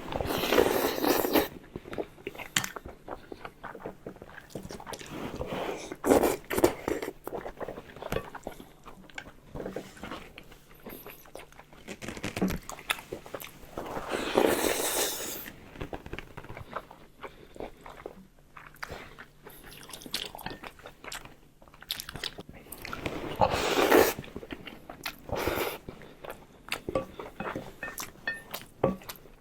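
Close-miked eating: a person biting and chewing food, with wet mouth clicks and smacks throughout and several louder, longer bursts of chewing or crunching.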